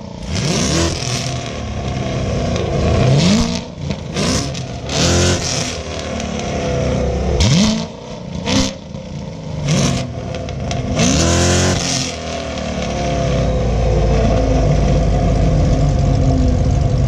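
Rev battle between a Corvette C7 Z06 V8 and a Camaro SS V8, both on Kooks long-tube headers: about eight sharp blips of the throttle, each a quick rising rev that falls back. From about thirteen seconds in, a steady low rumble takes over.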